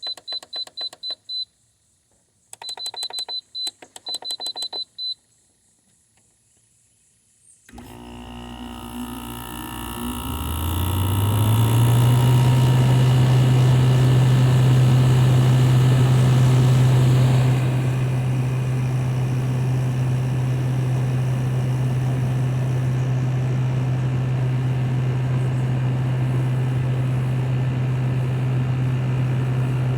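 LG 6000 BTU window air conditioner: rapid strings of high beeps from its controls in the first few seconds, then about eight seconds in the unit starts, its fan and GMCC rotary compressor coming up to speed with a low hum that rises in pitch and settles into a steady, loud running drone.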